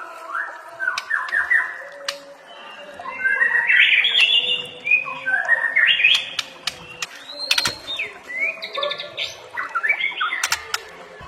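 Songbird singing a fast, varied run of chirps, trills and whistled glides, densest and loudest a few seconds in, with a few sharp clicks.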